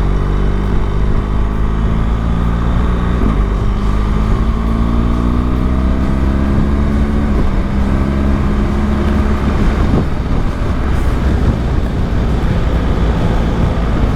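Motorcycle engine under way, its note rising as it accelerates, with gear changes about three and seven seconds in. After about eight seconds the engine note fades into steady road and wind rush.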